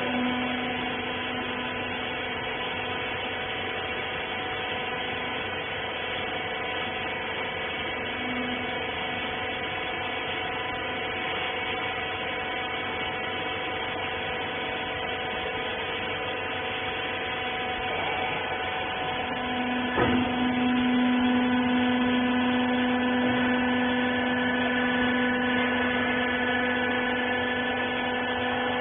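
Wiper bagging baler's electric hydraulic pump motor running with a steady hum. About twenty seconds in, a sharp click sounds and the hum gets louder as the machine takes up load.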